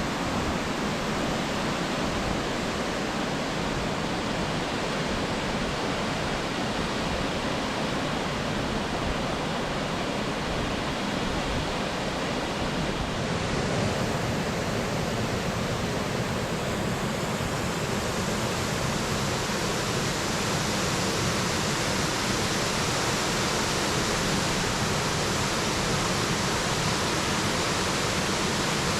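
Waterfall rushing steadily, an even hiss of falling water with no break; it grows a little louder and brighter about halfway through.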